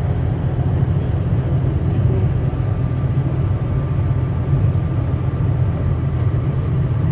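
Steady low rumble, with a faint thin tone joining it a couple of seconds in.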